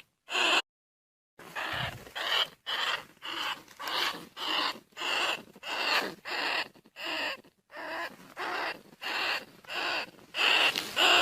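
Bandicoot rat calling: a steady series of short, harsh squealing calls, about one every half second, with a brief dead-silent gap just under a second in.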